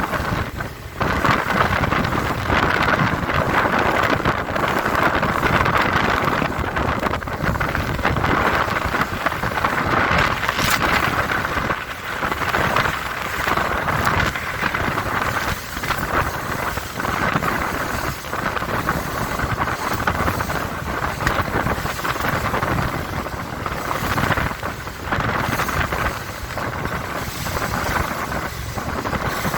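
Four Winns Liberator powerboat running fast through choppy water: engine and rushing water under heavy wind buffeting on the microphone, with irregular thumps and gusts throughout.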